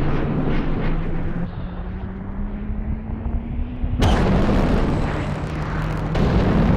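Film sound of a hypersonic jet aircraft's engine roar: a heavy rumble with a low tone that climbs slowly in pitch as it accelerates. About four seconds in, it cuts suddenly to a louder, brighter roar.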